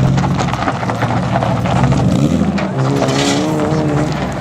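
BMW E30's engine running hard as the car drifts, with tyre squeal as it slides. A wavering tone comes in about three seconds in.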